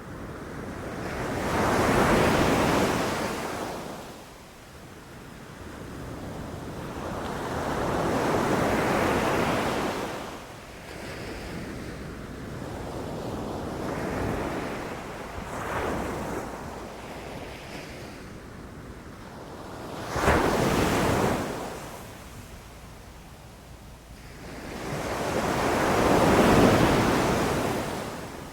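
Ocean surf on a beach: waves breaking and washing in, swelling and fading about every six seconds, with one sharper, sudden crash about two-thirds of the way through.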